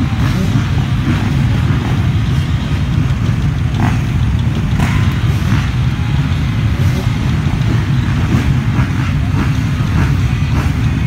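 Motocross dirt bike engines running, a loud steady rumble without pauses.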